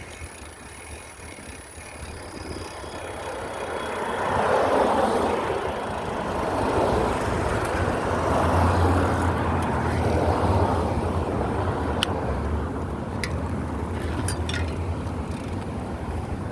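A road vehicle passing by, its tyre and engine noise swelling about four seconds in and slowly fading toward the end.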